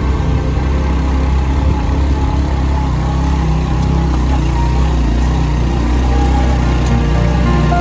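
Motorcycle engine running steadily, a continuous low drone while riding.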